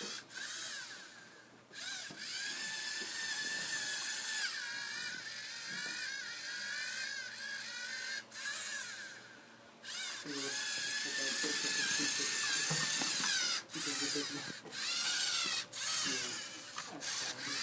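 Lego Mindstorms robot's small electric motors and gears whining as it drives around, the pitch wavering as it turns. The whine stops and restarts several times.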